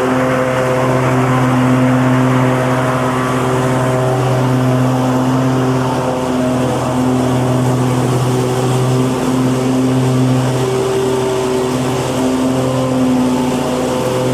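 Lawn mower engine running at a steady speed: an even, continuous drone that holds its pitch and loudness throughout.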